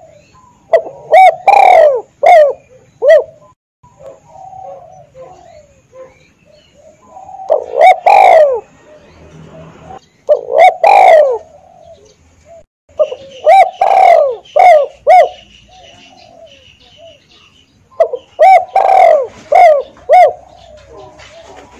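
Spotted dove (tekukur) cooing: five loud phrases of several short, downward-curving coos each, a few seconds apart, with fainter coos between.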